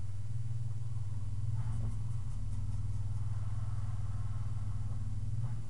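3.8 V6 engine running steadily at idle, with a faint whine sitting above the engine note from about a second and a half in until near the end.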